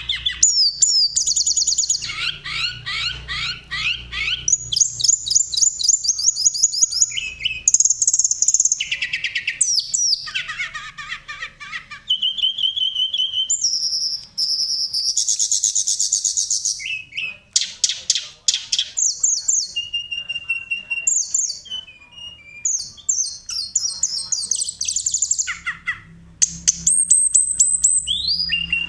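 Tledekan songbird singing in a steady stream of varied phrases: rapid rolling trills mixed with clear, held flute-like whistles.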